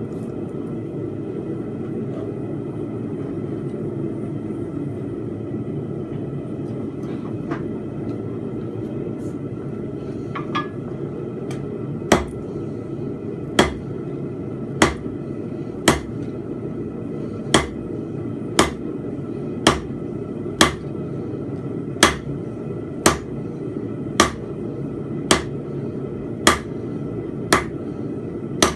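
Blacksmith's hammer striking a steel fence-peg bar on an anvil: after a quiet spell, evenly paced blows about once a second begin about twelve seconds in. A steady low rushing noise runs underneath.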